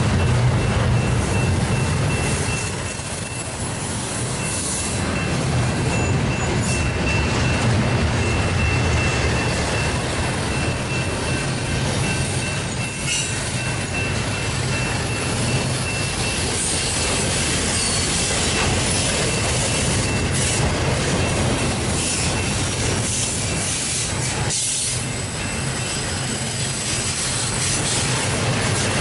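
Double-stack intermodal container well cars rolling past on jointed steel rail: a steady rumble and rattle of wheels and couplers. A thin, steady high-pitched squeal runs through the first half and fades out about halfway through.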